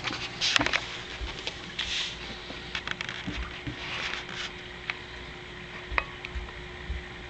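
Scattered small clicks and brief rustles of handling, busiest in the first second and again around two and four seconds in, over a steady faint hum.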